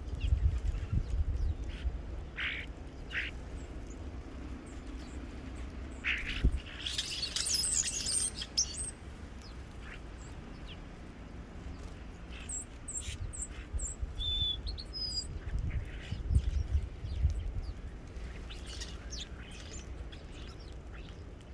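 Birds at a feeder calling and chirping: scattered short calls, a burst of scratchy chatter about a third of the way in, and a few thin high notes after the middle, over a low rumble.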